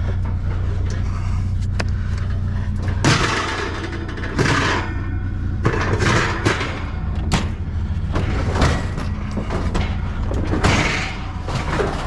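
A vehicle engine idling steadily under repeated knocks, clanks and scraping rushes of trash and scrap being handled.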